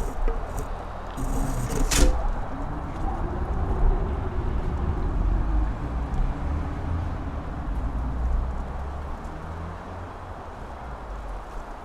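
Strong wind on a mountain top, gusting and buffeting the microphone with a deep rumble. There is a single sharp crack about two seconds in, and a faint howling tone rises and falls over several seconds.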